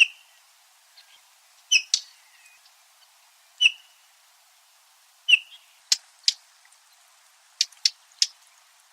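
A stonechat-type chat (Saxicola) calling: about ten short, sharp clicking 'tak' notes, some paired with a brief whistled note, spaced irregularly.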